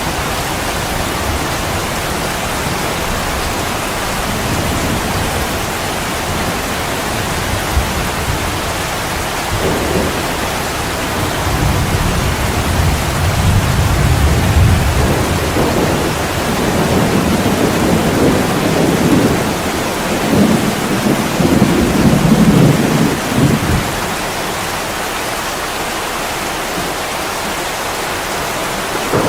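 Heavy rain falling steadily, with a long low rumble of thunder rolling through the middle that swells and then dies away.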